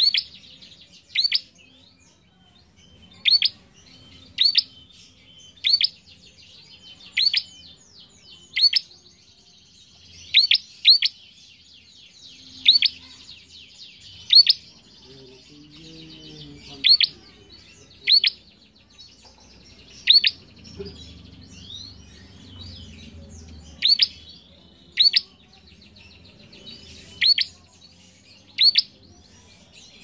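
Caged prenjak calling: short, sharp, loud calls repeated every second or two, about eighteen in all, over a softer continuous twittering.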